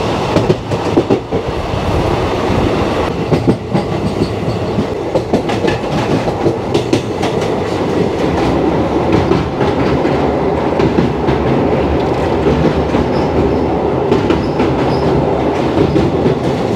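Express passenger train running at speed, heard from the open door of a sleeper coach: a steady loud rumble of wheels on the rails with scattered sharp rail-joint clacks.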